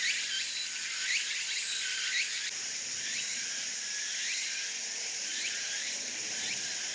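Outdoor insect chorus: a steady high buzz with short rising chirps about once a second over a constant hiss. The level drops slightly a couple of seconds in.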